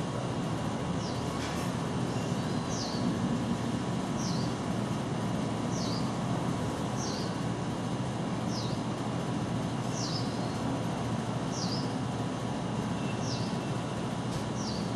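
A small bird chirping repeatedly, one short high falling note about every second and a half, over a steady low background rumble.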